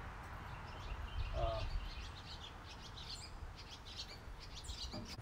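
Small birds chirping and twittering in quick, high calls over a steady low hum.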